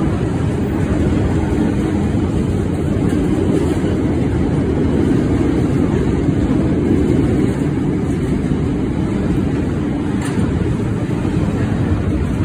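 Freight train wagons rolling past on the track, a steady rumble of wheels on rail, with one brief clack about ten seconds in.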